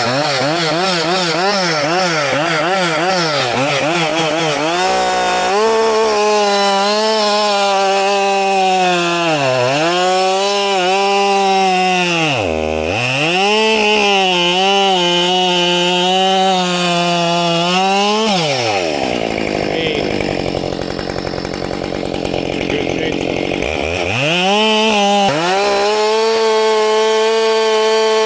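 Husqvarna 572 XP two-stroke chainsaw with a 28-inch bar cutting through a log at full throttle. The engine pitch sags as the chain bites, falls to a low idle about 18 seconds in, and revs back up for another cut a few seconds later.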